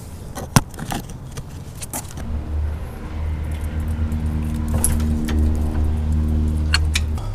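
A few sharp metallic clicks and jingles, then a steady low engine-like hum for about five seconds that stops suddenly near the end.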